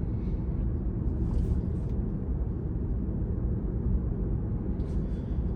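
Steady low road and tyre rumble inside the cabin of a Tesla electric car at speed on a freeway on-ramp.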